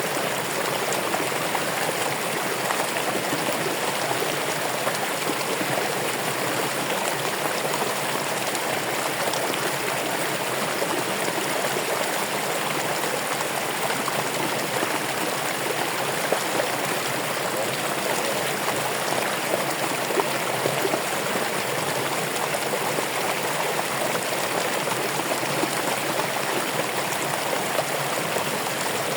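Running water flowing steadily: an even, unbroken rush.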